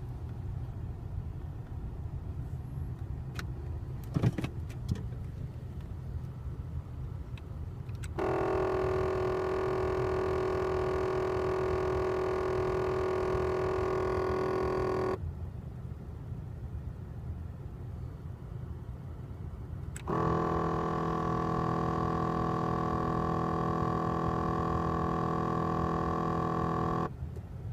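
Failing recirculation-door actuator motor in a VW Rabbit MK5 running twice, each time for about seven seconds, with a steady buzzing noise that starts and stops abruptly. The noise is the sign of a broken recirculation door control motor. A low engine rumble runs beneath, and a click comes just before the second run.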